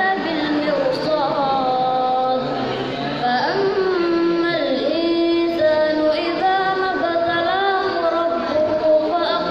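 A young student's voice chanting the Qur'an in melodic tilawah style, holding long, ornamented notes that bend slowly up and down.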